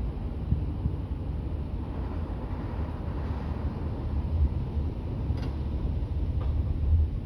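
Low, steady traffic rumble, with two faint clicks near the end.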